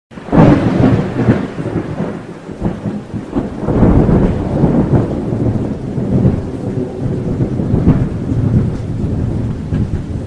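Thunder rumbling over steady rain, with loud rolls swelling right at the start, again about four seconds in and again near eight seconds.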